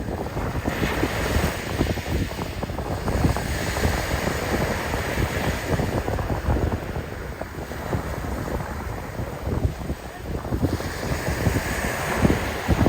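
Strong wind buffeting the microphone, with sea waves washing in and out a few times underneath.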